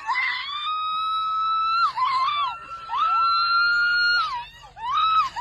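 A woman screaming with excitement in a series of long, very high-pitched screams, each held for about a second or more with short breaks between them.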